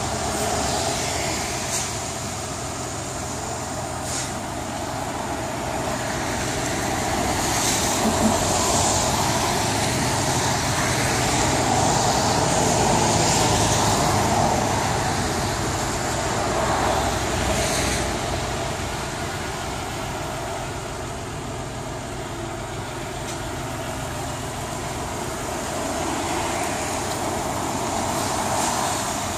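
Toyota 4Runner's V6 engine idling close by, under a steady hiss of traffic on wet pavement that swells and fades.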